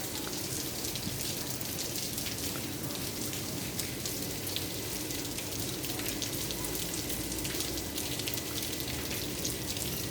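Rain falling steadily, with many separate drops heard as small ticks over a continuous hiss.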